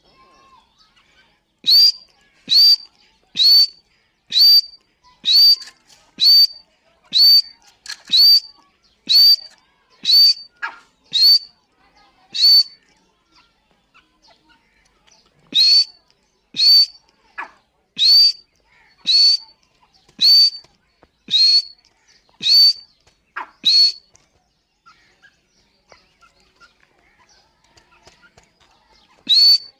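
Grey francolin (teetar) calling: a loud series of short, sharp, piercing calls about one per second, stopping for a couple of seconds, running again, then pausing for several seconds before starting once more near the end.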